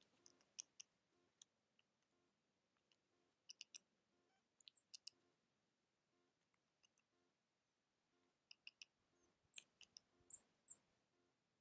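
Faint, sporadic clicks in small clusters, like seeds and nutshells being picked at and cracked at a feeder, with two short high chirps near the end.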